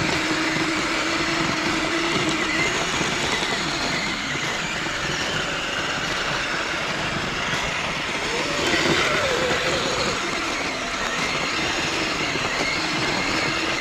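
Electric RC vehicles driving through snow: a steady motor and gear whine over a continuous rushing noise, its pitch rising and falling with the throttle about eight to ten seconds in.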